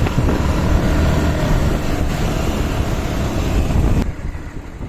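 Motorcycle engine running hard under acceleration with heavy wind noise on the microphone, cutting down sharply about four seconds in.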